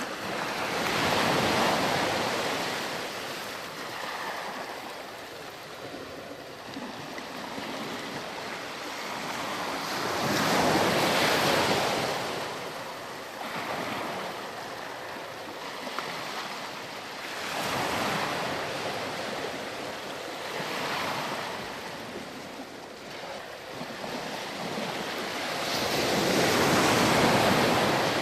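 Ocean surf breaking and washing up the shore in slow surges, five in all. The loudest come near the start, around the middle and near the end.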